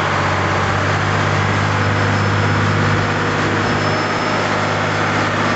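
Parasail tow boat's engine running steadily: a constant low hum under an even hiss.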